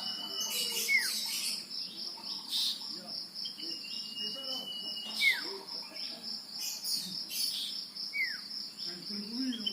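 Male common iora singing: a long level whistle ending in a quick downward slur, three times, over the steady pulsing drone of insects.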